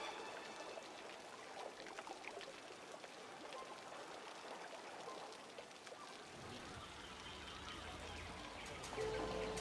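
Water trickling and burbling steadily, like a small stream. A low rumble joins about two-thirds of the way through.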